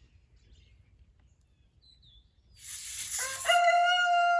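Rooster crowing once, starting about two and a half seconds in: a long, loud, held call.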